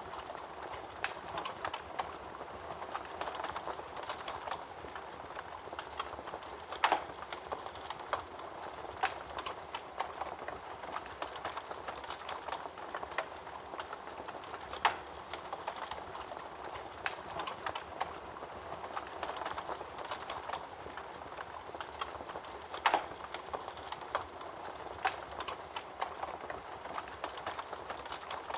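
Fire crackling steadily: a soft hiss with frequent small snaps, and a louder pop about every eight seconds.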